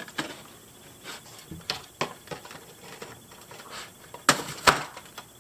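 Plastic doll packaging being handled: a scatter of short clicks and crinkles as the doll is worked free of its box and the plastic prongs holding it. Two louder snaps come close together near the end.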